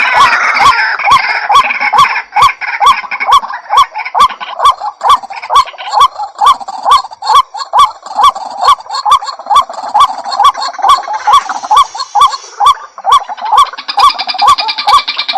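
White-breasted waterhen (ruak-ruak) calling: a monotonous run of loud, honking notes about three a second, with denser, overlapping calling near the end.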